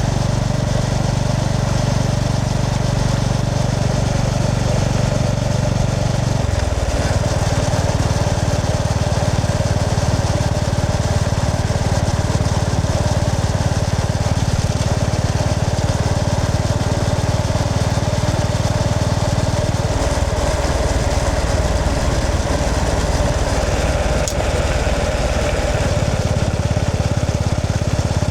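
Honda GB350S air-cooled single-cylinder engine running under way on a motorcycle. The engine note changes about six seconds in and again about twenty seconds in, under a steady rush of wind and road noise.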